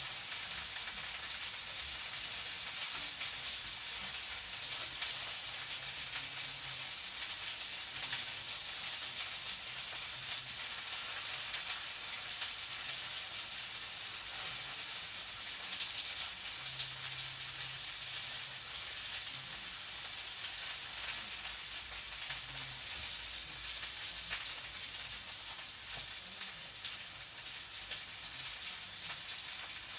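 Food frying in a pan: a steady crackling sizzle.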